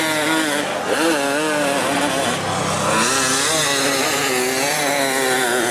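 Enduro dirt bike engines revving, the pitch rising and falling over and over with quick throttle blips.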